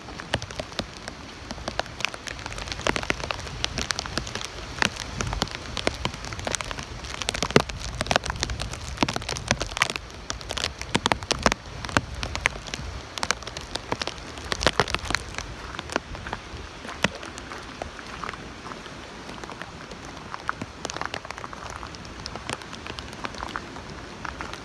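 Rain during a tropical storm, a steady patter with many sharp, irregular drop hits close by, over a low rumble that is heavier in the first half.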